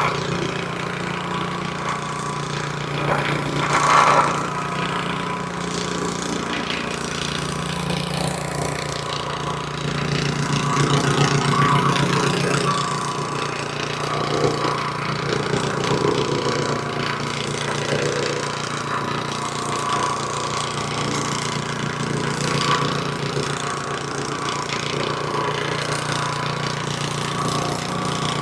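Gas-engine plate compactor (VEVOR, 78.5cc) running steadily, with a brief louder moment about four seconds in and a louder stretch around eleven seconds.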